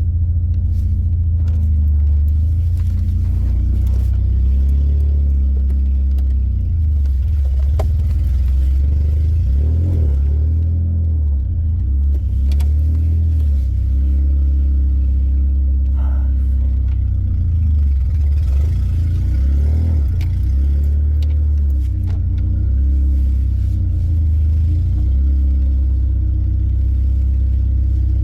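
A 1999 Honda Civic's four-cylinder engine running steadily, its pitch rising and falling slightly a couple of times.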